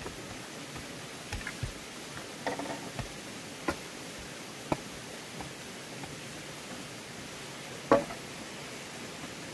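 Scattered light knocks and taps at irregular spaces over a steady hiss, the loudest knock about eight seconds in.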